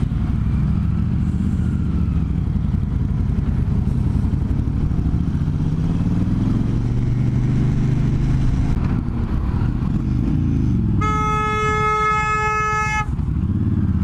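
Motorcycle engine running, its pitch rising and falling as it speeds up and slows down, with a steady vehicle horn blast lasting about two seconds near the end.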